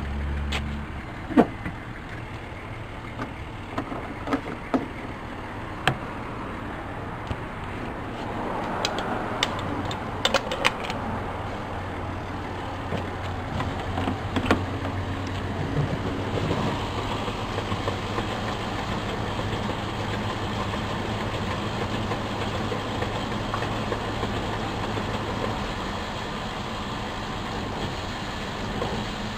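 Car engine running with a steady low hum, with scattered sharp clicks and knocks in the first half.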